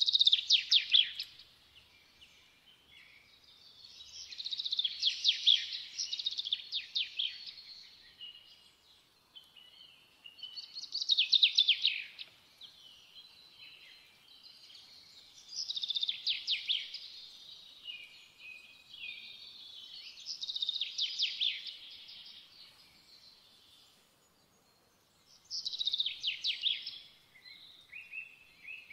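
A songbird singing in phrases of rapid trilled notes that repeat about every five seconds, with short pauses between them.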